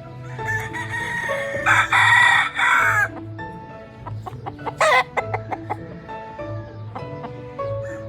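A gamefowl rooster crows once, about two seconds in, with a short sharp call about five seconds in, over background music with a steady beat.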